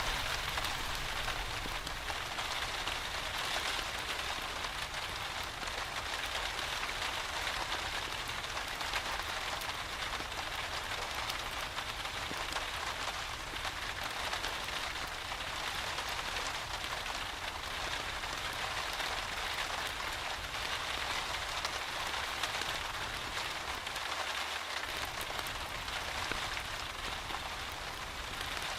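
Steady rain falling, an even hiss of many fine drops pattering without a break.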